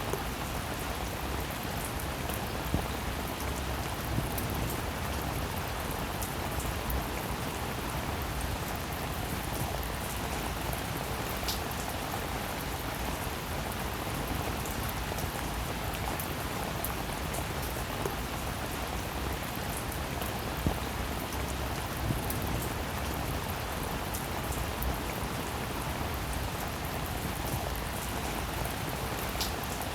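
Steady rainfall: an even hiss of rain with scattered sharper drop hits standing out now and then.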